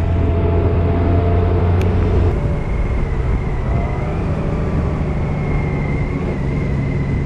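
Car driving: steady engine hum and road noise, the engine note shifting about two seconds in.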